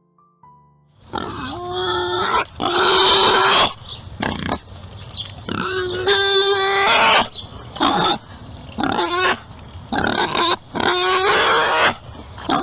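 An animal calling loudly over and over, starting about a second in: a run of harsh cries, some noisy and some held on a steady pitch.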